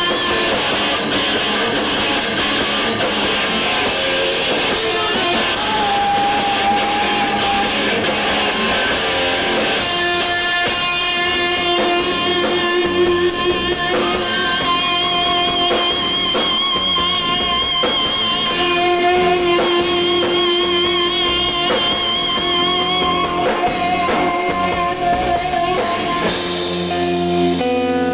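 Live emo rock band playing: electric guitars and drums, loud and dense for the first ten seconds or so, then opening out into ringing, sustained guitar notes over steady drum hits. Near the end the cymbals and high end drop away, leaving lower held notes.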